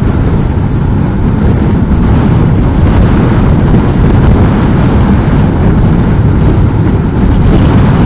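Strong wind rushing and buffeting on the microphone of a Honda NC750S motorcycle riding at speed in a heavy crosswind, with engine and road noise underneath. The noise is loud and steady throughout.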